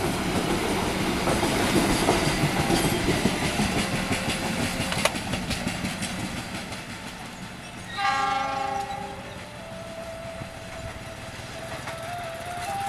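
Passenger coaches rolling past, their wheels clattering over the rail joints, the clatter fading as the train draws away. About eight seconds in, the train's horn sounds for about a second, then a fainter tone lingers.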